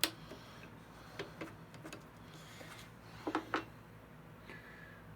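A few sharp clicks of metal parts: magnetic blade-setting jigs being clipped back onto a thickness planer's cutterhead. Two clicks close together about a second in and another pair about three and a half seconds in.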